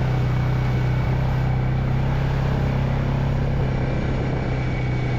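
Quad bike (ATV) engine running at a steady, even speed while riding slowly over a wet dirt track, a constant low hum.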